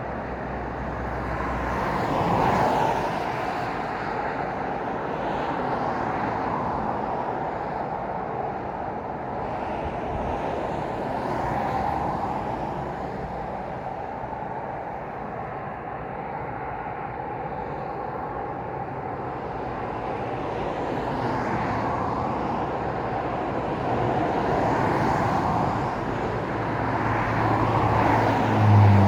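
Road traffic going by: steady tyre and engine noise that swells every few seconds as individual vehicles pass close by, the loudest pass just before the end.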